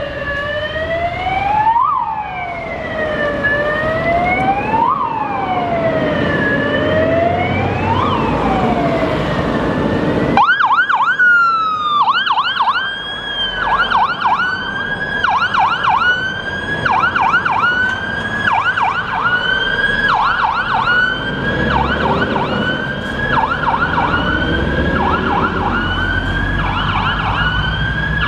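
Fire engine siren sounding a slow wail, rising and falling about every three seconds, then switching about ten seconds in to a fast yelp. The trucks' engines rumble underneath.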